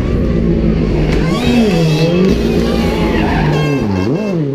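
Rally car on a closed special stage, its engine revs falling and climbing twice as it shifts gear through a bend. Tyres squeal and skid on the tarmac.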